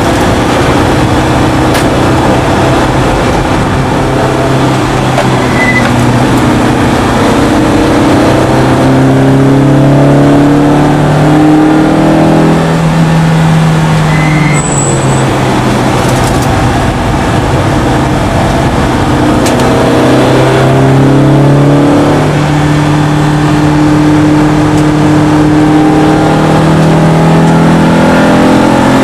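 BMW E30 M3's four-cylinder engine pulling hard at racing speed, heard inside the cabin. Its pitch climbs steadily on long pulls and falls back sharply several times as the car shifts or lifts for corners.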